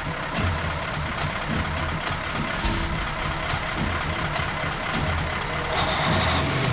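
Monster truck engine running steadily as a cartoon sound effect, a low, even drone with no changes.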